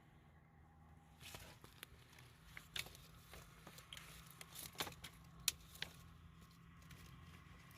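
Faint scattered clicks and knocks, like light handling of objects, over a low steady hum; they start about a second in and the sharpest comes about five and a half seconds in.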